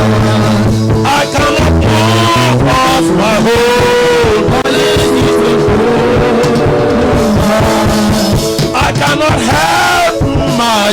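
Live church worship music: a band with bass guitar and guitar playing under voices that sing and wail.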